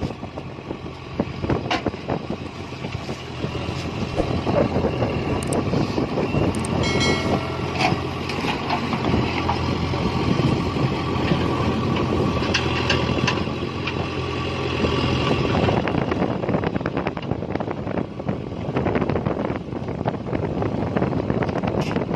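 Heavy diesel engine running steadily, with repeated clanks and knocks throughout and a brief high whine about seven seconds in.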